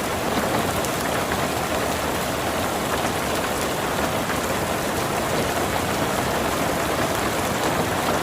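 Steady rain falling, a dense, even patter with no let-up.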